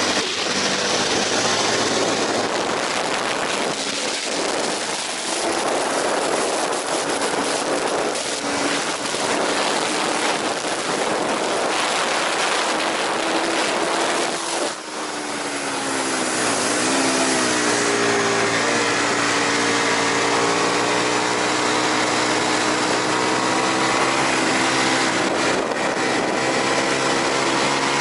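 Aprilia RSV 1000 Factory's 60-degree V-twin engine running hard at high revs under a heavy rushing noise. About halfway through the note dips briefly as the revs drop, then climbs steadily as the bike accelerates again.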